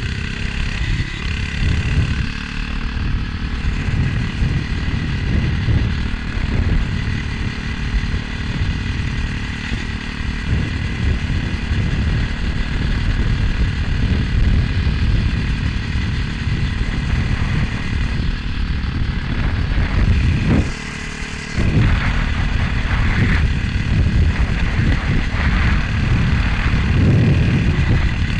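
Motovox MBX11 minibike's small engine running while being ridden, under heavy wind buffeting on the helmet-mounted microphone. The noise drops briefly a little after three-quarters of the way through.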